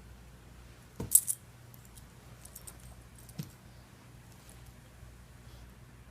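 A dog's collar tags jingling briefly about a second in, three quick metallic clinks, followed by a few faint ticks and a soft knock a couple of seconds later.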